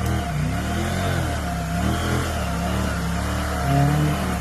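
Husqvarna Norden 901's parallel-twin motorcycle engine revving up and down several times, its pitch rising and falling in repeated swells.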